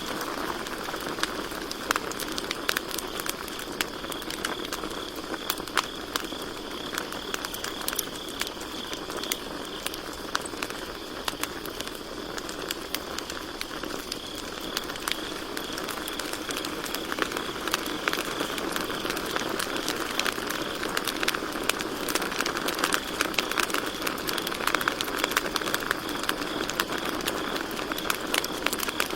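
Campfire crackling with frequent sharp pops, over a steady high trill of crickets chirping.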